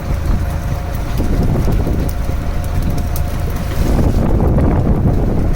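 Wind buffeting the microphone over the steady low rumble of a fishing boat running at sea, with a faint steady whine for the first few seconds.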